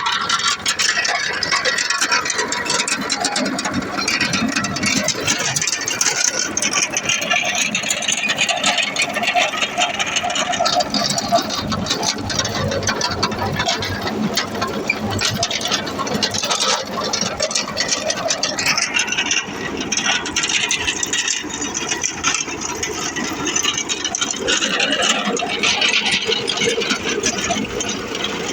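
Tractor running steadily, with a continuous rattle and clatter over the engine.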